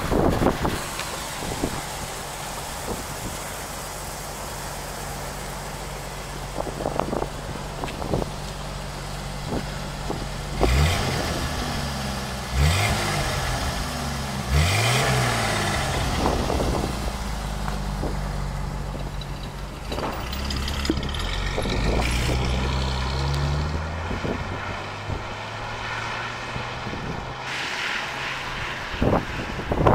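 1950 Dodge Meadowbrook's inline-six running at idle, with three quick throttle blips that rise and fall in the middle. Near the end the car pulls away with its tires hissing on wet pavement.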